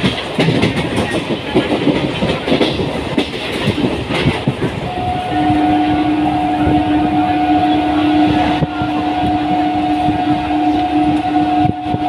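Indian suburban train running on the tracks, its wheels and carriage rattling and clattering. About five seconds in, a steady two-tone train horn starts and keeps sounding over the rattle.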